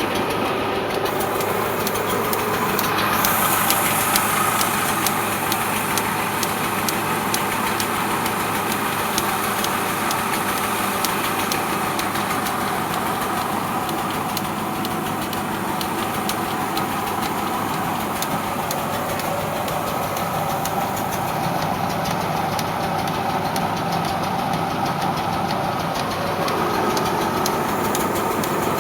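Tractor diesel engine running steadily with a clattering knock, with no break or big change in level.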